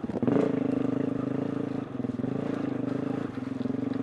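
2020 KTM 350 EXC-F's single-cylinder four-stroke engine running at low, fairly steady revs under light throttle, with two short dips as the throttle is eased, about two seconds in and again past three seconds.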